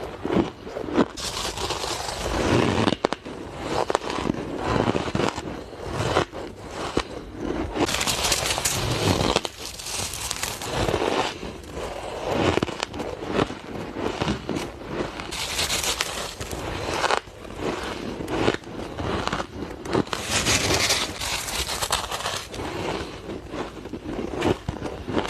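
Close-up crunching and chewing of ice by a person, with many sharp, irregular crackles as the ice breaks between the teeth. Several louder, brighter stretches of crunching stand out, each a second or two long.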